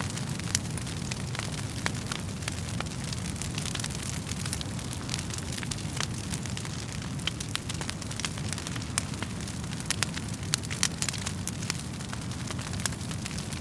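Wood fire burning in a fireplace: a steady low rushing of flames with frequent sharp, irregular crackles and pops from the burning logs.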